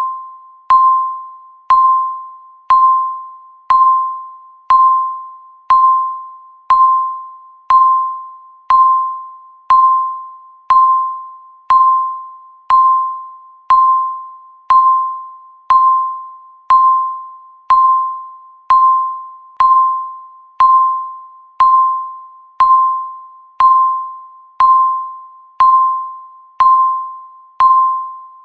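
Countdown timer's electronic tick: a short, single-pitch beep that starts sharply and fades out, repeating evenly once every second.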